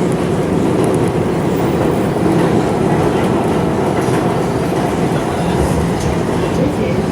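R211 subway train running at speed between stations: a steady rumble of wheels on rail, with a few faint clicks over rail joints.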